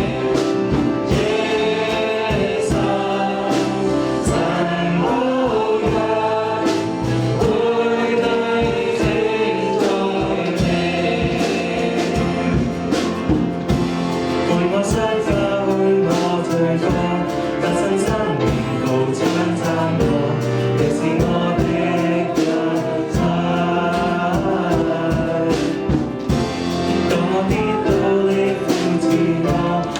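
Live worship music: a congregation and worship band singing a song with instruments and a steady beat.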